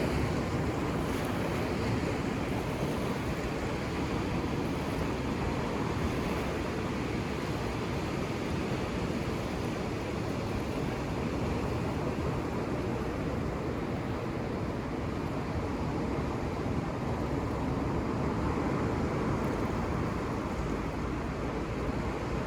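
Ocean surf on a beach: a steady, even wash of breaking waves with no single crash standing out.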